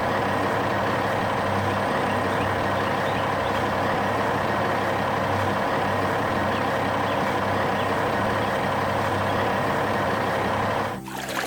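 Heavy truck engine running at a steady, unchanging pitch, cutting off near the end.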